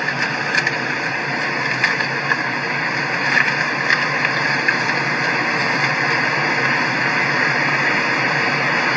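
Steady noise inside a stopped car's cabin: the car engine idling under an even hiss, with no sudden sounds.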